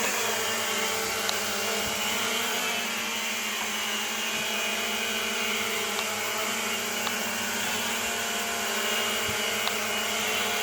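Small Propel Flex 2.0 quadcopter's motors and propellers buzzing steadily in flight.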